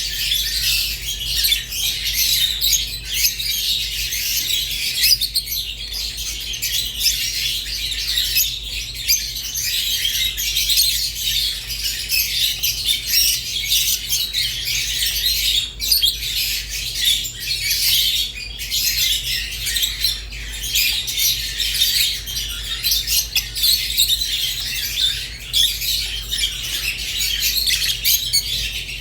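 Rosy-faced and Fischer's lovebirds chirping and chattering without a break, a dense stream of high chirps mixed with squawks, over a faint steady low hum.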